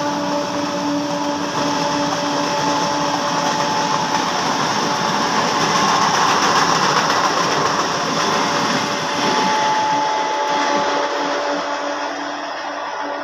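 A train passing close by: a steady tone over the first few seconds, then a loud steady rushing noise that fades away near the end.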